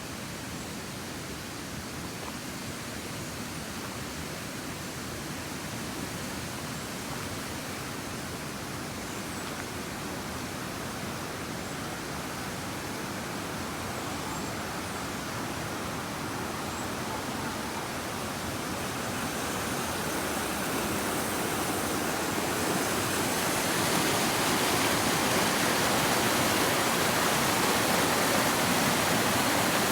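Mountain stream rushing, a steady hiss of flowing water that grows steadily louder as it comes nearer.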